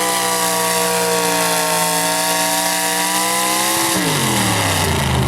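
Pulling truck's engine held at high revs, then the revs drop quickly about four seconds in and fall toward idle.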